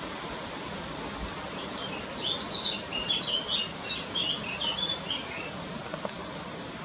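A songbird singing a short, varied phrase of quick, high chirping notes, starting about two seconds in and lasting about three and a half seconds, over a steady background hiss.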